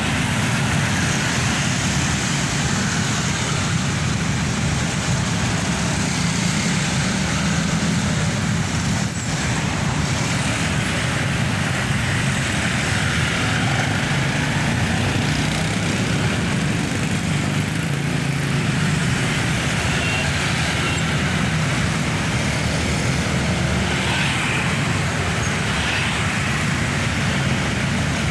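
Mitsubishi Fuso Fighter truck's diesel engine running in slow, dense road traffic, its low engine note steady over the noise of the surrounding vehicles.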